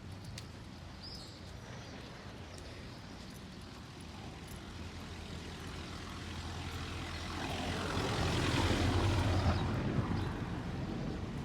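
A motor vehicle passing by on the street: its engine and tyre noise swell over several seconds, are loudest about eight to ten seconds in, then fade.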